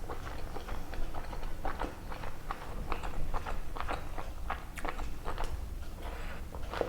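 Close-miked eating sounds: wet mouth smacking and chewing of rice and chicken kosha eaten by hand, heard as a rapid, irregular run of short clicks and smacks.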